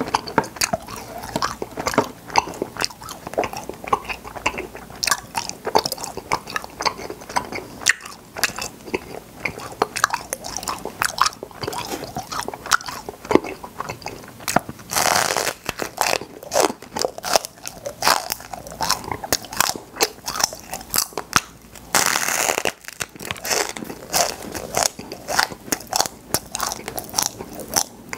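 Close-miked chewing and biting of popping cotton candy, with dense crackling and crunching clicks throughout. Two brief louder hissing stretches come about halfway through and again later on.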